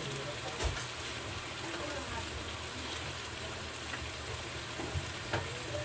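Shrimp simmering in sweet chili sauce in a wok, a steady sizzle with a few faint pops.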